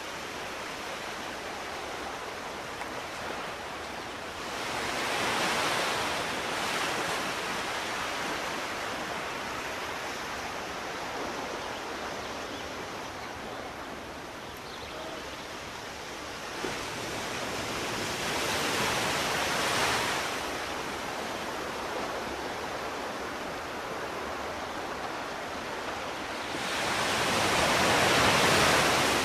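Sea waves breaking and washing on the shore, a steady surf hiss that swells three times, each surge rising and falling over a few seconds.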